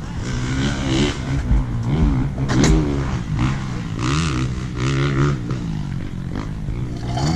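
Dirt bike engine running, its throttle blipped so the revs rise and fall several times over a steady idle.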